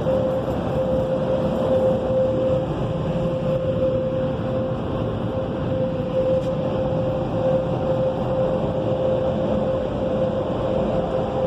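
Belanger car wash dryer blowers running: a loud, steady rush of air with a steady whine held on one pitch.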